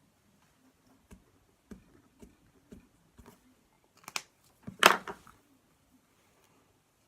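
Hands working slime and a marker pen: scattered light taps and clicks, then two short, louder scraping handling sounds about four and five seconds in, the second the loudest.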